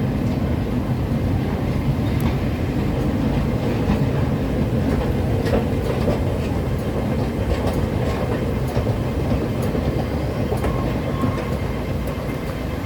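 Steady, loud low rumble of a moving vehicle, with scattered clicks and rattles.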